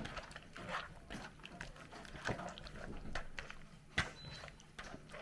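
Faint, scattered kitchen handling sounds: light clicks and knocks of bowls and utensils, with one sharper knock about four seconds in.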